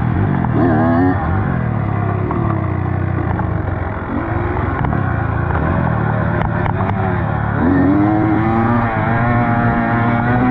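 Dirt bike engine under way, revving up and down with the throttle: the pitch climbs about a second in, dips around four seconds, and rises again near eight seconds.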